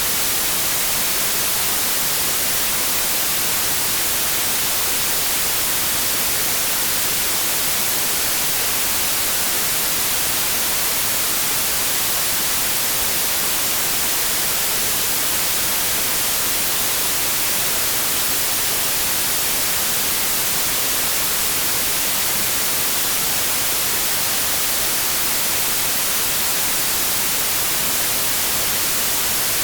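Steady, unchanging white noise: an even static hiss, strongest in the high frequencies.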